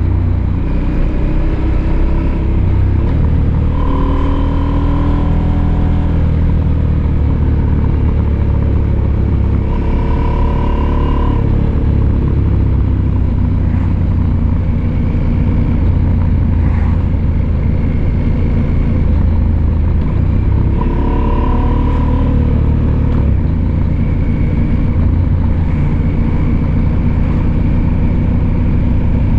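Husqvarna Norden 901 motorcycle's 889 cc parallel-twin engine running on the move, its pitch climbing in three strong pulls, about four, ten and twenty-one seconds in, between stretches of steadier running.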